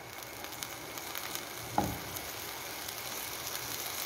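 Chopped cabbage, bell peppers and green onions sizzling as they are stir-fried in oil over a high flame and turned with a spatula, with light crackles and one short knock a little before halfway.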